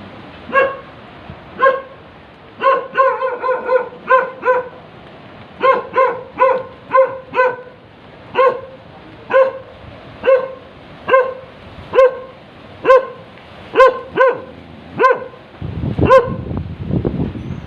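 A dog barking over and over, about twenty short barks, some in quick runs. A low rumbling noise comes in near the end.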